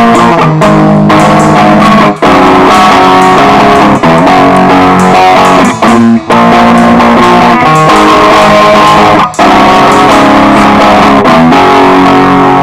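Guitar-led band music with drums, loud and continuous, in a stretch without singing.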